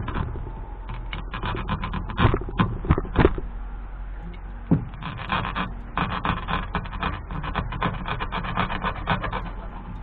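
Close-up handling noise of a plastic fishing float and its cord: irregular rubbing and scraping with many sharp little clicks, as the cord is trimmed and worked around the float by hand.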